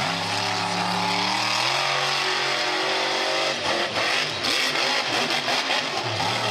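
Monster truck engine running hard under throttle, its pitch holding and then dropping about two seconds in. After about three and a half seconds the steady tone breaks up into a rougher, noisier rumble.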